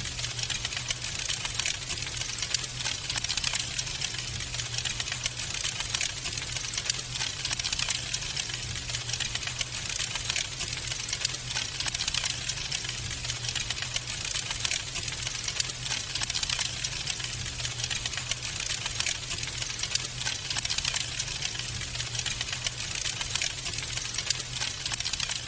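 Wood fire in a fireplace crackling: a dense, irregular stream of small pops and snaps over a steady low rumble.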